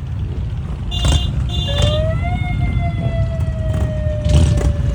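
Steady rumble of motorcycle engines with two short high beeps about a second in, then a siren-like wail that rises briefly and slowly falls away.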